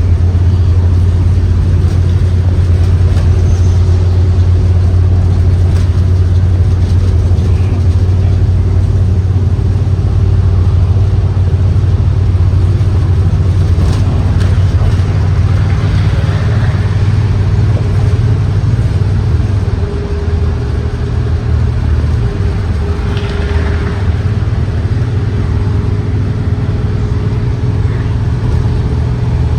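The Ford 7.3L gasoline V8 of a 2023 Blue Bird Vision school bus, heard while the bus is driving, with a steady low engine drone and road noise. About two-thirds through, the engine note shifts and the level drops a little.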